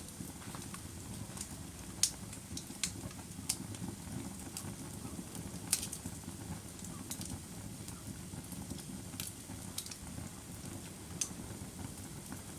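Wood fire burning with a steady low rumble and irregular sharp crackles and pops, the loudest about 2 and 6 seconds in.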